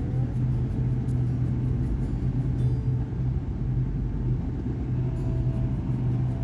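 Electric commuter train's steady low rumble and hum, with background music faintly under it.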